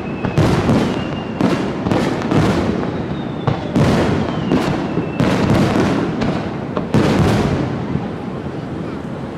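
Aerial fireworks bursting in quick succession: a dense string of sharp bangs, each ringing out into the next over a continuous rumble, with a faint falling whistle twice.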